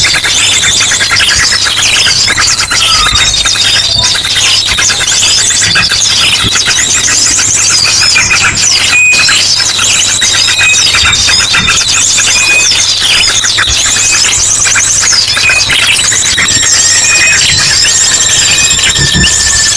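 A dense, loud chorus of many small birds chirping, trilling and whistling over one another, mixed with the sharp calls of an ashy drongo: a bird-lure recording. Near the end a long, slightly falling whistle runs under the chatter.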